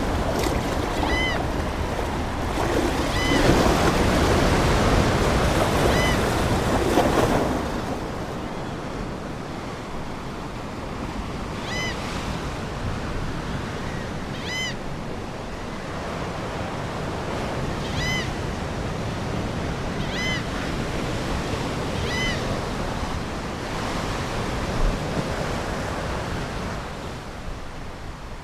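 Ocean surf: a wave breaking and washing in over the first seven seconds or so, then a lower steady wash. A seagull gives short calls every few seconds over it.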